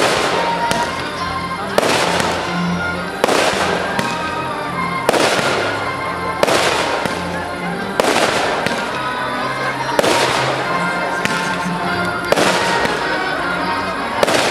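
Fireworks shells bursting one after another, each a sharp bang followed by a fading crackle, about one every one and a half to two seconds.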